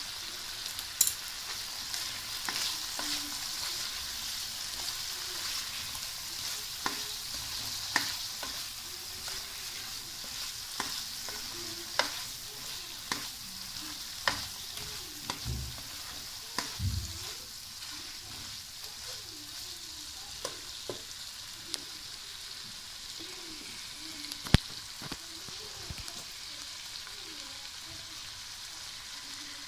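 Spiced chicken pieces sizzling in oil in a non-stick kadai while a plastic spoon stirs them, with frequent sharp clicks and knocks of the spoon against the pan. The sizzle eases a little about halfway through.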